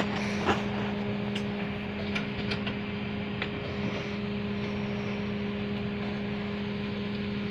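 Vehicle engine idling, an even, unchanging hum, with a few light clicks in the first three and a half seconds.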